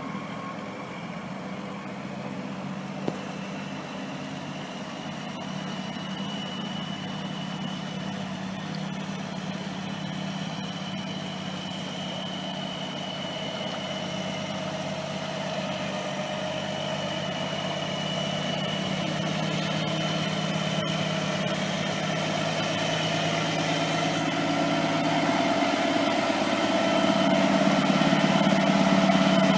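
Heavy diesel semi-truck engine idling with a steady hum, growing gradually louder, with one sharp click about three seconds in.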